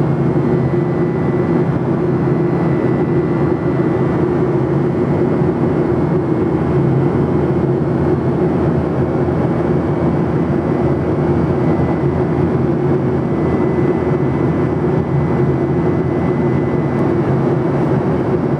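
Steady cabin noise inside a Boeing 737-800 in flight: an even, loud drone of the engines and rushing air, with a faint high steady tone above it.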